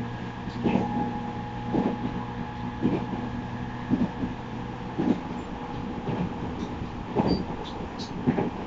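Running sound inside a JR East 209-3100 series electric train: a steady motor hum and whine under regular clacks of the wheels over rail joints, about one a second. The hum fades about five seconds in while the clacks go on.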